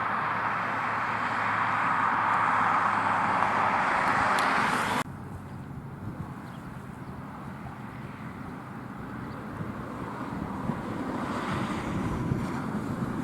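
Road traffic noise from passing vehicles, with wind on the microphone. The loud rush cuts off suddenly about five seconds in, and quieter traffic noise then builds again near the end.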